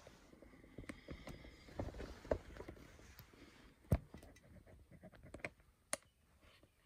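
Scattered light clicks and knocks from handling, a few sharper knocks standing out about two, four and six seconds in.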